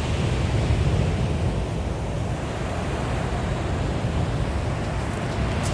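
Sea waves washing onto a shingle beach, a steady surf hiss, with wind buffeting the microphone as a low rumble.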